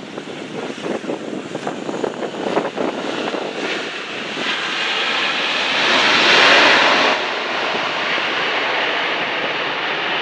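A fixed-wing airplane's engines running loud as it passes. There is a rough, crackling sound for the first few seconds, then a strong surge about five to seven seconds in that drops off suddenly to a steady noise.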